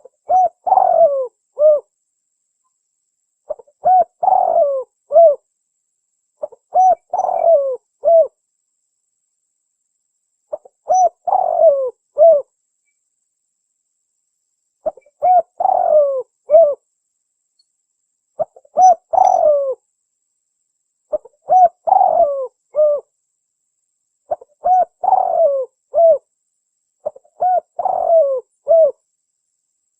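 Spotted dove cooing: a phrase of several notes, repeated nine times at about three-second intervals, with silence between the phrases.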